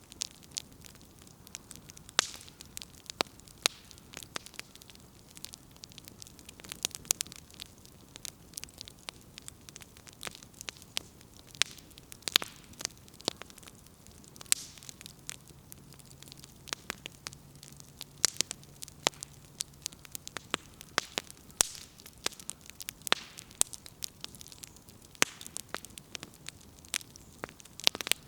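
Firewood burning in a campfire, crackling: irregular sharp pops and snaps, some close together and some a second or two apart, over a soft hiss.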